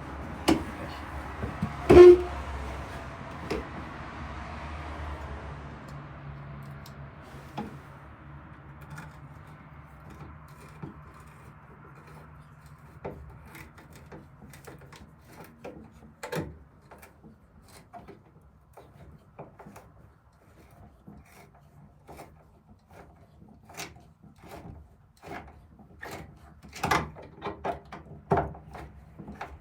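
Scattered knocks, clicks and rubbing of hand tools and hardware against a wooden cupboard while hinges are being fitted, with a loud knock about two seconds in and a cluster of knocks near the end. A rushing noise fades out over the first few seconds.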